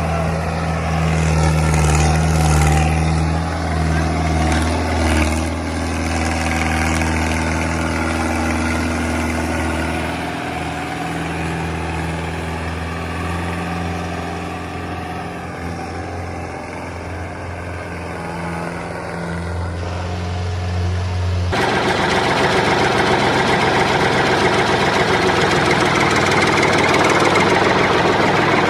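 Engine running steadily with a low, even hum. About twenty seconds in it switches abruptly to a denser, faster rattling engine sound.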